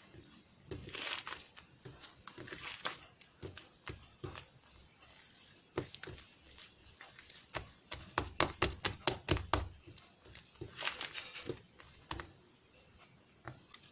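Close-up handling noises in a small room: crinkling rustles, with a quick run of about a dozen sharp taps or clicks in the middle.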